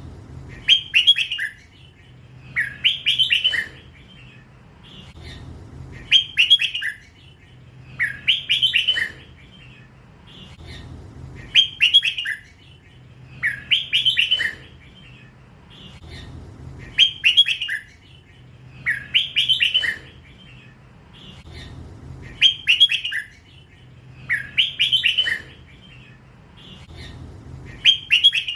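Young hybrid red-whiskered bulbul singing: short phrases of several quick notes, repeated every two seconds or so, in the drawn-out 'lak wai' song style.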